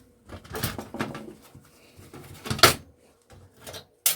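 Scattered clicks and knocks of a screwdriver and parts being handled while unscrewing a projector's circuit board, with a sharper knock about two and a half seconds in and a quick click near the end.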